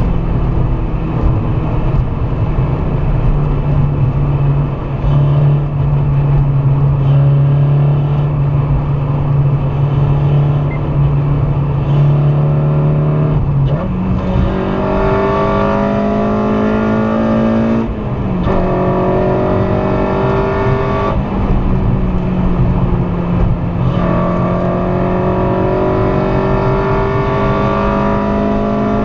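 Honda Civic Si with a swapped K24A2 2.4-litre four-cylinder engine, heard from inside the car, holding a steady drone at first. About halfway through it accelerates hard, its pitch climbing through the gears, with breaks and drops in pitch at the gear changes a few seconds apart.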